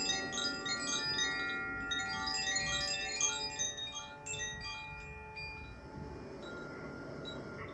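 Wind chimes ringing: many overlapping bright tones struck in quick succession, thinning out after about four seconds to a few scattered strikes that ring on.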